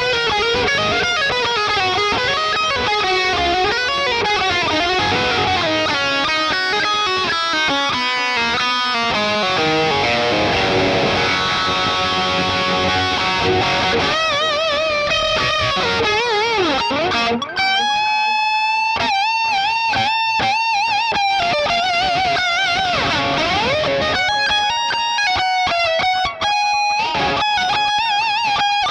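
LTD ST213 electric guitar playing a lead melody: quick note runs at first, then from about halfway long sustained notes with wide vibrato and string bends.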